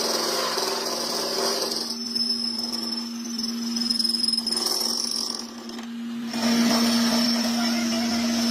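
A workshop power tool running with a steady hum and a thin high-pitched whine. It drops briefly around six seconds in, then comes back louder.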